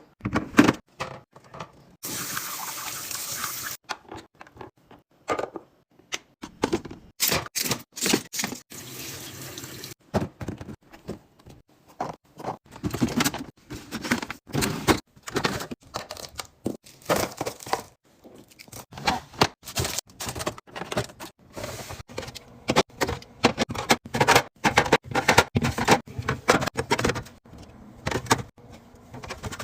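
A kitchen tap runs for a couple of seconds near the start. After that come many short clinks, taps and knocks of containers and food packages being handled and set down while restocking a fridge.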